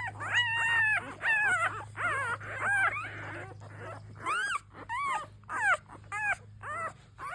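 Week-old American Bully puppies crying: a rapid string of high-pitched squeals and whimpers. The first cries are drawn out and level, and the later ones are shorter and drop in pitch.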